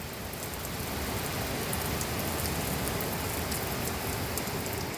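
Heavy rain pouring down, a steady hiss with fine drops ticking, water flooding across a roof.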